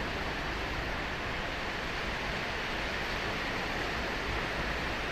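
Ocean surf washing steadily onto a beach, a continuous hiss of breaking waves with no single crash standing out.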